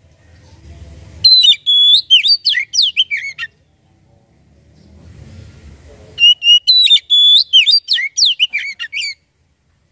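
Oriental magpie-robin (kacer) singing two loud phrases of quick whistled notes that glide up and down, each lasting two to three seconds. A faint low rumble builds before each phrase.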